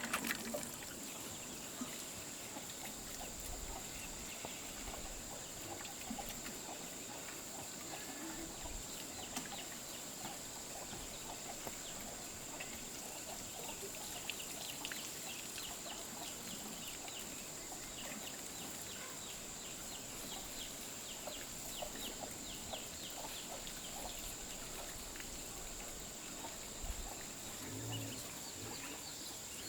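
Chickens clucking in a flock, with a steady high-pitched tone running underneath.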